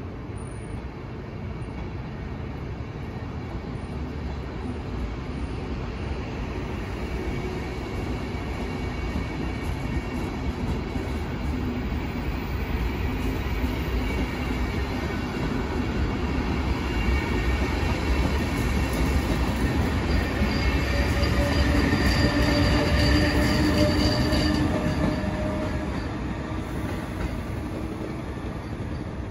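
A train running along the track, growing louder to a peak a little past the middle and then fading, with thin squealing from the wheels around the loudest part.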